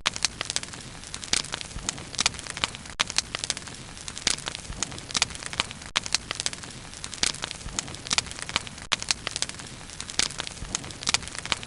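Bonfire crackling: irregular sharp pops and snaps of burning wood, several a second, over a steady low hiss of the flames.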